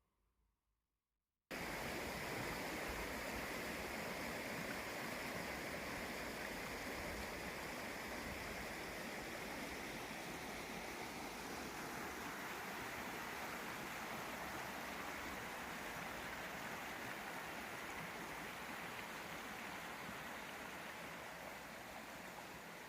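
Water running steadily, starting suddenly about a second and a half in and easing slightly toward the end.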